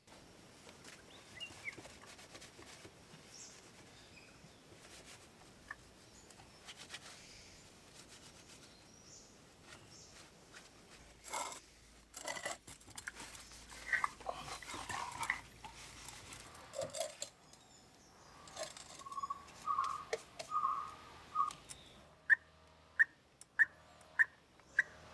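Birds calling over faint outdoor background noise: scattered short chirps, then near the end a quick run of about six sharp calls.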